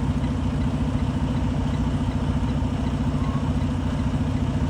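Truck's diesel engine idling steadily with an even low pulse.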